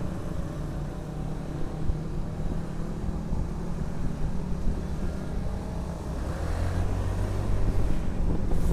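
Motorcycle engine running steadily with road and traffic noise; a deeper engine sound comes in and the level rises in the last couple of seconds.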